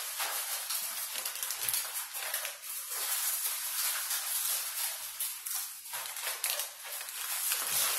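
Close-up eating sounds: chewing and mouth noises with small crackles.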